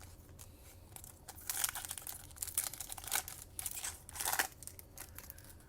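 Foil trading card pack wrapper being torn open and crinkled by hand, an irregular crackling rustle that peaks between about one and four and a half seconds in.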